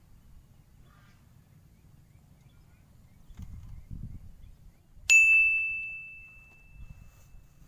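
A single bright metallic ding about five seconds in, ringing on one high tone and fading away over about two seconds.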